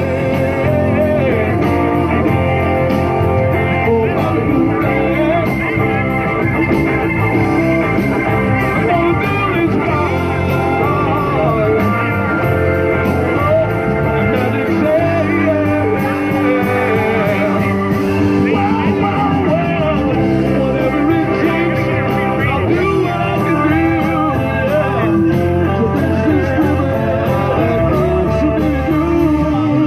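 Live blues band playing a song, with electric guitar over bass and drums.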